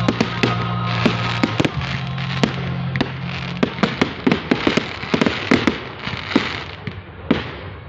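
Fireworks going off: a rapid string of sharp cracks and bangs over a continuous crackling hiss, thinning out near the end. A steady low hum runs under the first half and stops about three and a half seconds in.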